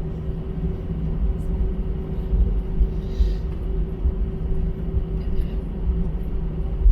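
Airbus A320 cabin noise on the ground after landing: a steady low rumble with a steady hum from the idling engines.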